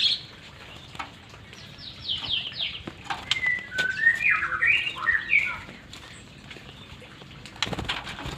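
White-rumped shama calling: a quick run of five falling chirps, then a burst of varied sliding whistled notes. Several sharp clicks, with a cluster of knocks near the end.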